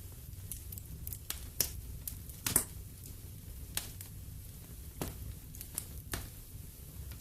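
Wood fire in a fireplace crackling: about a dozen irregular sharp pops, the loudest about two and a half seconds in, over a steady low rumble.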